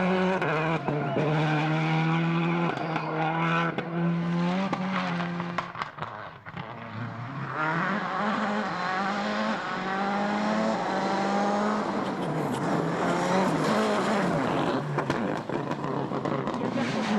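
World Rally Car engine running at full throttle through the gears, its pitch stepping with each gearshift. About six seconds in it backs off briefly, then revs climb again through more shifts.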